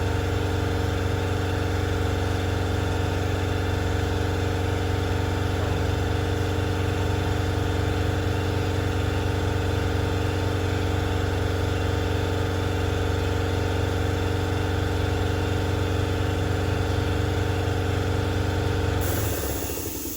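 A motor runs steadily with a strong, even hum, then cuts off about 19 seconds in.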